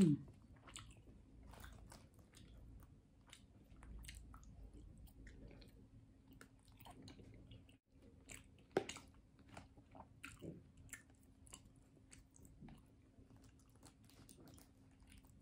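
Close-miked mouth sounds of someone chewing kutsinta, a chewy rice cake topped with grated coconut: soft, irregular smacks and clicks, with one louder click about nine seconds in, over a faint steady hum.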